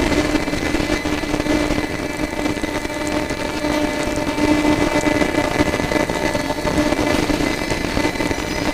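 A steady machine hum: one constant low tone with a few fainter overtones over a noisy bed, unchanging throughout.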